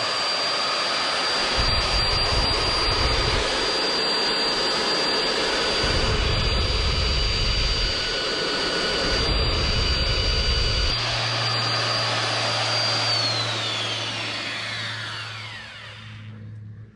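Electric drill running flat out while boring into the thick steel of an iron gate, with heavier spells as the bit bites under load. It is released about three-quarters of the way through and its whine falls in pitch as the motor winds down.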